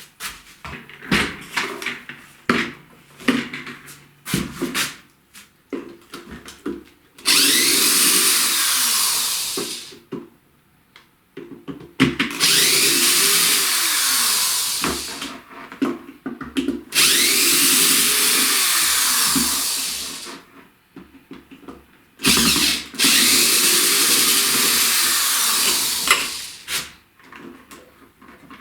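Cordless drill-driver running in four bursts of three to four seconds each, its speed wavering, unscrewing the bolts of an office chair to take it apart. Before the first burst, clicks and knocks of handling the chair parts.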